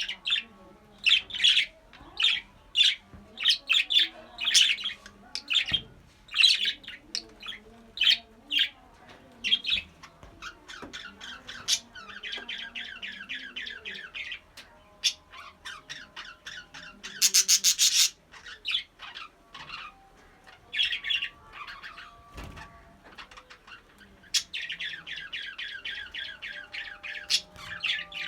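Budgerigars chirping and warbling: many short sharp chirps, runs of fast chattering warble, and one loud harsh squawk about two-thirds of the way through.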